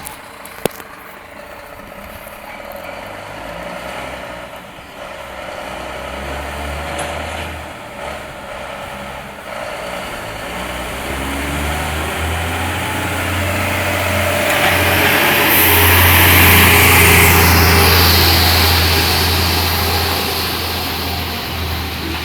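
Scania G420 truck's diesel engine running with a steady low drone, growing louder to a peak about two-thirds of the way through and then easing off, as the truck draws near and passes. There is a single sharp click just after the start.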